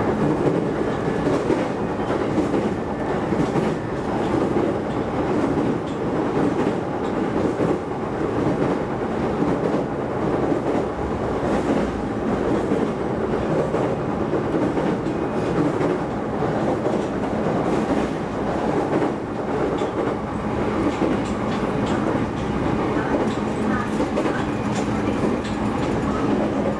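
Shinano Railway SR1 series electric train running at speed, heard from inside the carriage: a steady rumble of wheels on rail with a low hum, broken by regular clacks over the rail joints.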